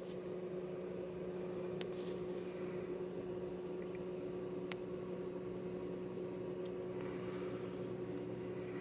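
Steady low machine hum holding two constant pitches, with a few faint ticks.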